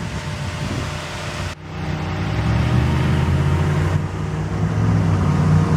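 Mitsubishi Galant GTS's 3.8-liter V6 idling with a steady low hum. It breaks off abruptly about one and a half seconds in and comes back louder.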